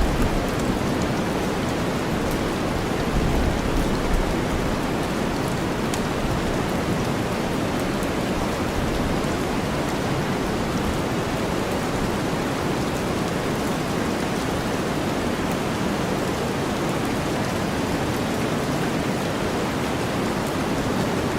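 Steady rainfall layered over deep white noise, an even wash of hiss with faint scattered drop ticks.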